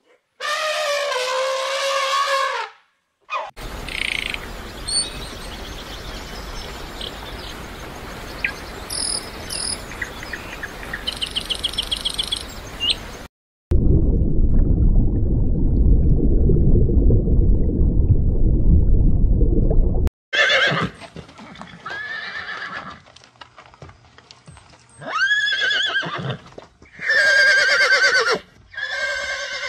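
Horses neighing: one whinny right at the start and several more in the last third. In between comes a long stretch of noisy outdoor sound with a few short chirps, then a loud low rushing noise.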